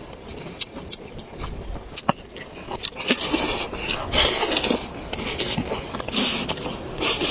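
Close-miked eating sounds: chewing, with sharp clicks and scrapes, getting louder and denser from about three seconds in.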